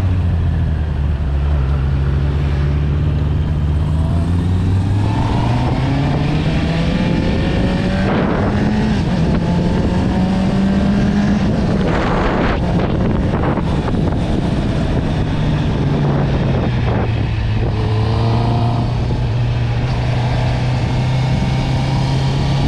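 Honda CB650R's inline-four engine through an Akrapovic exhaust, running under way: its pitch climbs gradually over the first several seconds, eases back around the middle, then holds steady. A few short rushes of noise come through around the middle.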